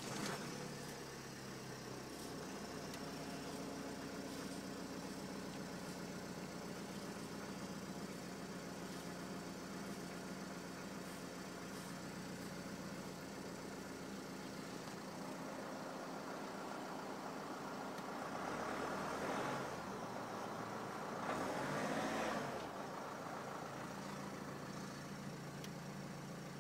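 Renault Laguna 2.0 dCi's four-cylinder diesel idling just after a start, heard from inside the cabin. It settles from a fast idle to a steady idle in the first couple of seconds. Near the end there are two brief swells of louder noise.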